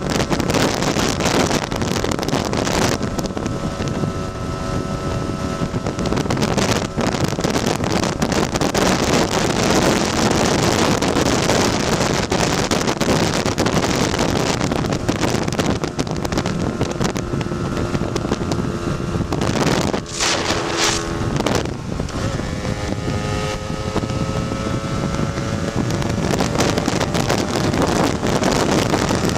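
Tuned Lambretta scooter's two-stroke engine running at road speed, half buried under heavy wind buffeting on the microphone. The engine note rises a little in the last few seconds.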